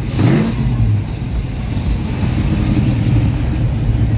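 A classic convertible car's engine revs up briefly in the first half-second as the car accelerates away, then runs on with a steady low rumble.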